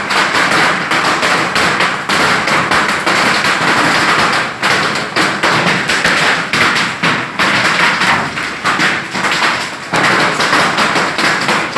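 Hail falling hard: a dense, unbroken patter of hailstones striking, many sharp taps and thuds every second.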